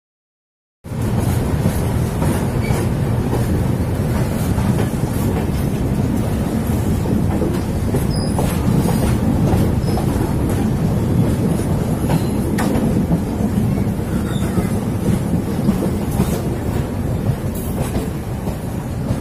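Indian Railways passenger train pulling out of a station, heard from an open coach door: a steady rumble of wheels on rail with scattered clicks over the track. It starts suddenly about a second in.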